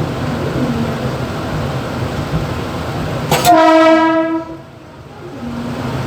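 Electric multiple-unit local train's horn sounding once, a single loud note of about a second, over the steady rumble and rattle of the driving cab.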